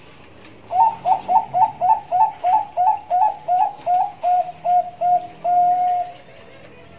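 Zebra dove (Bangkok perkutut) cooing in the fast, repeated 'nduduk ngitit' style. About a second in it starts a quick run of rising notes, about three a second, which slows into a few level notes and ends in one long held coo.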